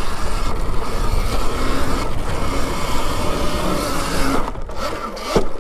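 Riding noise from an Alta Redshift MXR electric dirt bike on a dirt trail: a steady rush of wind on the microphone mixed with tyre and chassis noise. There is no clear engine note in it. It starts suddenly and stops just before the end.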